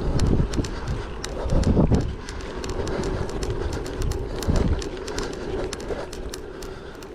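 Gravel bike rolling over a rough track: tyres crunching and the bike rattling with many sharp clicks and knocks, over wind rumble on the microphone.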